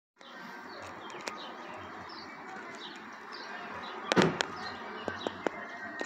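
Small birds chirping in short repeated notes over steady background noise, with a few sharp clicks and a loud bump about four seconds in.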